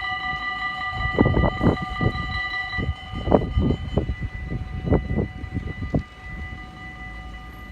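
DDZ double-deck electric train passing over a level crossing: its wheels clatter over the crossing in a quick series of thumps from about a second in until about six seconds. Under this the crossing's warning bell rings steadily and grows fainter about halfway through.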